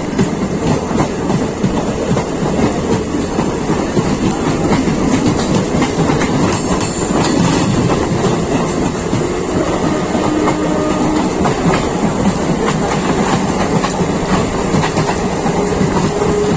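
Local passenger train running at speed, its wheels clattering over the rail joints in a steady loud rumble.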